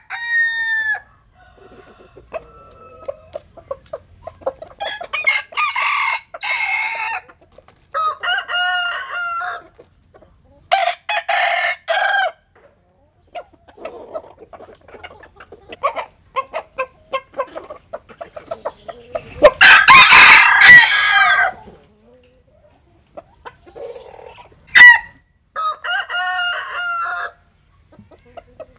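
Bantam roosters crowing several times in turn, each crow lasting a second or two, with clucking between the crows. The loudest, fullest crow comes about two-thirds of the way through.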